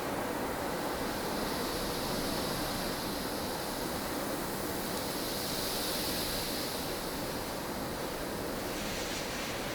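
Storm wind blowing steadily in a dense rushing hiss, with a higher gust that swells and dies away about midway through.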